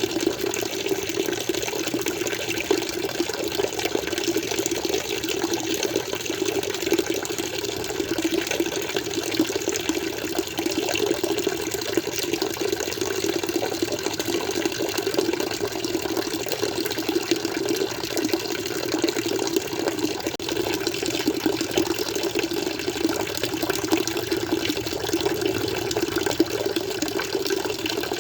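Water flowing and splashing steadily, a continuous full gush like water pouring into a tank.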